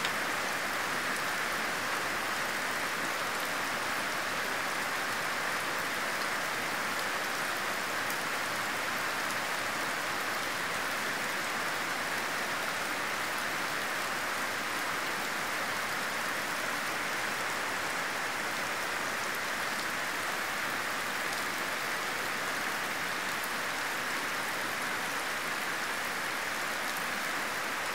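Heavy rain falling steadily, a constant even hiss of drops on leaves and ground.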